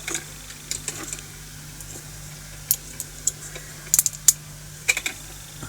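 A few scattered light clicks and taps of small hard objects being handled, over a faint steady hum.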